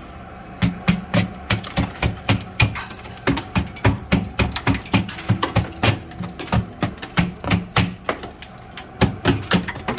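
A pick chipping at ice built up inside a freezer, in rapid repeated strikes about three a second. The ice forms because the freezer's door seal is bad.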